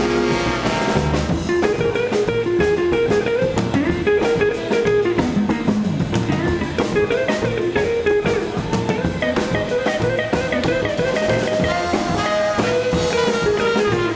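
Live blues-R&B band in an instrumental break: a guitar solo of quick notes over bass and drum kit, with a downward bend about five seconds in.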